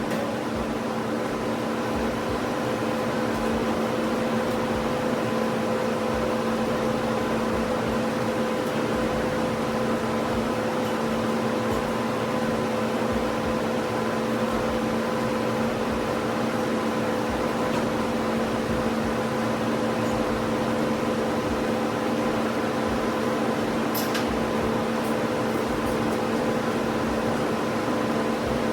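A steady electric motor hum with several fixed tones, even in level throughout. One sharp click sounds about 24 seconds in.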